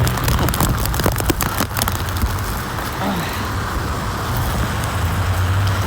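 Storm wind and rain buffeting the microphone: a crackle of sharp taps for the first two seconds, then a steady rush with a low rumble.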